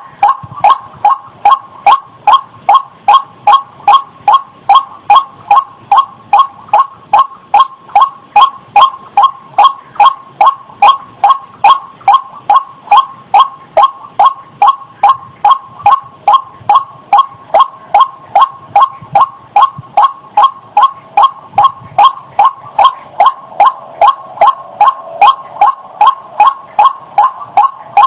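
White-breasted waterhen (ruak-ruak) call: a loud, monotonous series of short, harsh notes repeated about two to three times a second without a break. It is a lure call for trapping waterhens.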